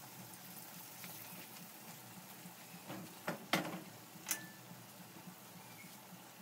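Flour-coated fish frying in a pot with a steady, low sizzle. A few sharp knocks sound around the middle.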